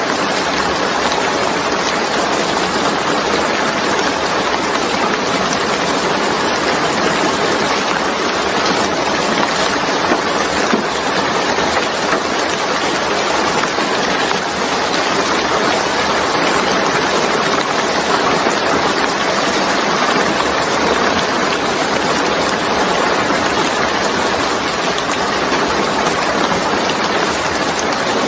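Steady, even rain falling, a constant rushing hiss without distinct drops or thunder.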